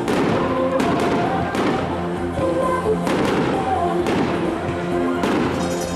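Aerial firework shells bursting with sharp bangs about once a second, over music with sustained notes.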